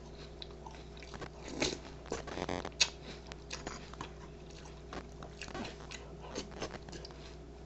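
Someone chewing a mouthful of crunchy cereal, with irregular crunches and crackles.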